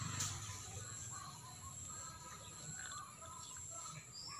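Faint chirping of small birds, with a single sharp click just after the start.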